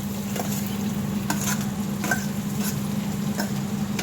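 Sliced onions sizzling as they fry in hot butter and oil in a pan, with irregular clicks and scrapes of a spoon or spatula against the pan, over a steady low hum.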